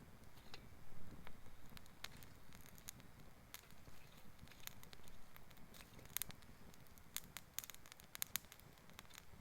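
Campfire of fallen forest wood crackling, with scattered sharp pops that come thicker in the second half, over a low steady rumble.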